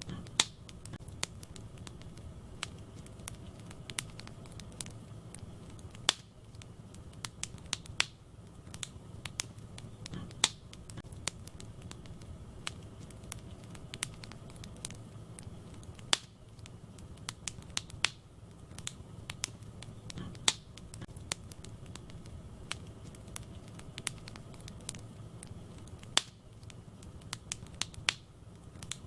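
Wood fire crackling in a fireplace: irregular sharp pops and snaps, a few of them louder, over a low steady background.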